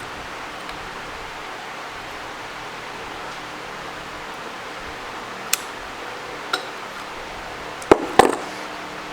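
Small metal parts clinking: two light clicks, then two sharper metallic clinks with a brief ring near the end, over a steady hiss.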